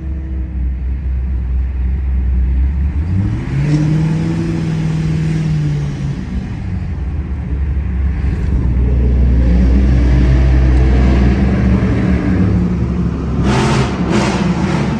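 Loud V8 car engine idling with a heavy low rumble. It is revved up about three seconds in, held for a couple of seconds and dropped back, then revved and held again. A few short sharp noises come near the end.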